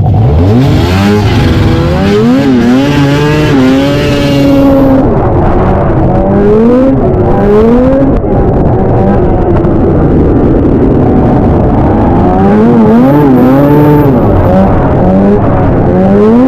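Vintage two-stroke snowmobile engine revving hard, its pitch rising and falling over and over as the throttle is opened and eased.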